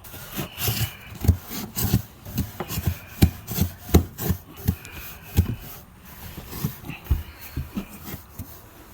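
Irregular scraping, rubbing and light knocks as leaves and debris are cleared by hand out of a camper's rooftop air conditioner.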